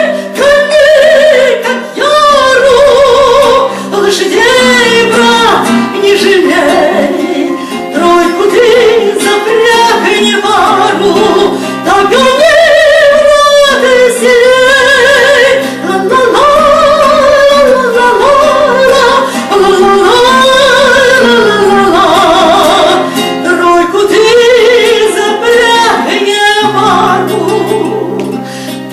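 A woman singing a Russian romance in a high voice with vibrato, over held accompaniment notes.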